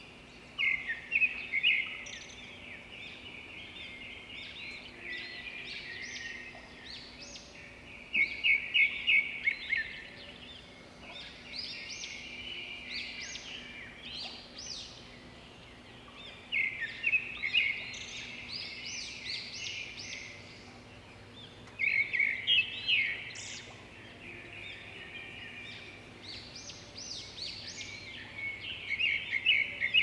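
Birds chirping, in bursts of quick trilled notes every few seconds over a faint steady hum.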